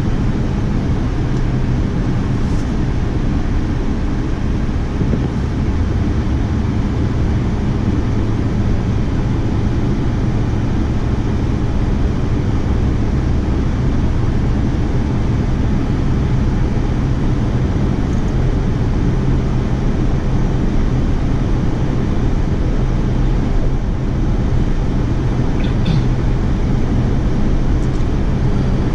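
An engine running steadily at an even speed: a constant low drone with a rushing noise over it, unchanging throughout.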